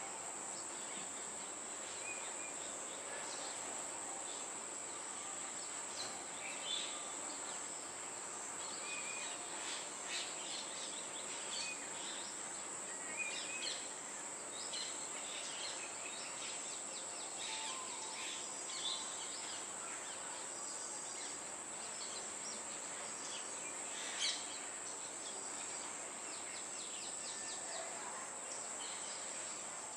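Steady high-pitched drone of insects, with scattered faint short bird chirps and one sharp click about two-thirds of the way through.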